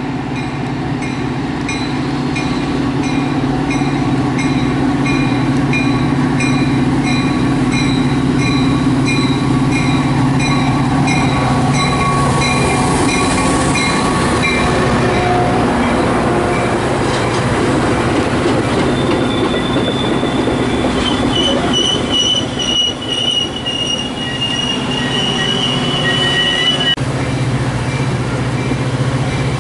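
A train rolling past with its wheels squealing against the rails in high, steady tones over a low drone. A short ringing note repeats a little faster than once a second through the first half.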